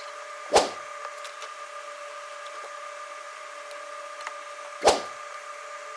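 Hot air rework station blowing onto a phone's power-management IC during reflow: a steady airflow hiss with a faint whine. Two short knocks sound, one about half a second in and one near the five-second mark.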